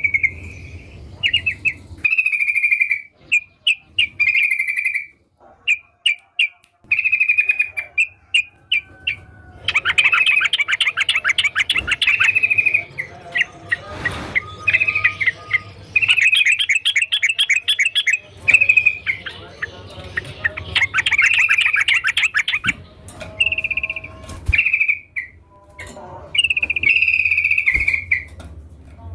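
Yellow-vented bulbul (trucukan) singing: repeated short, bubbly whistled phrases with gaps between them, breaking into denser, rapid chattering runs about ten and sixteen seconds in.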